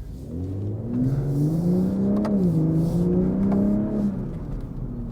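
BMW M340i's turbocharged straight-six, breathing through an AWE Touring non-resonated exhaust, accelerating hard: revs climb, drop at an upshift about two seconds in with a short crack, climb again, then fall away as the throttle is lifted near the end.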